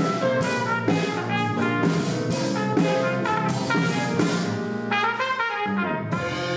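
Jazz band music with brass instruments over a steady beat; the low instruments drop out briefly near the end.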